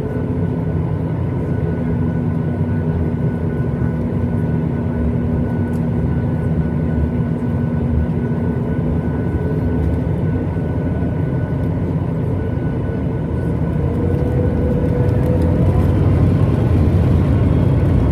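Steady cabin noise aboard a Boeing 737 MAX 8 airliner: a low rumble with faint whining tones over it, one tone rising slightly past the middle, growing a little louder near the end.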